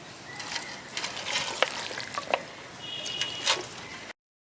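Pieces of chicken sizzling in hot oil in a clay pot, with clicks and clinks of a utensil stirring and turning them. The sound cuts off abruptly about four seconds in.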